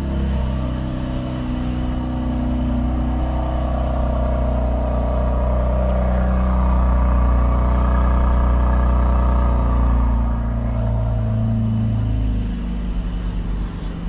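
Mercedes-AMG GLC 43's twin-turbo V6 idling fast just after a cold start: a steady low drone that swells a little, then drops back to a lower idle about twelve seconds in.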